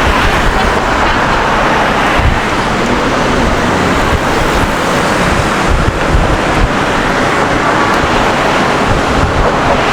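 Steady city street ambience: an even wash of road traffic noise.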